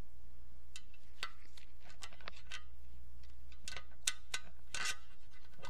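A scattered series of light metallic clicks and taps, some with a short ring, from tools and small steel parts being worked on an opened manual transmission case.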